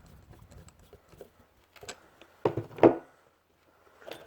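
Small metal carburetor parts and a screwdriver being handled on a bench: light scattered clicks and taps, then a few louder knocks about two and a half seconds in and again near the end.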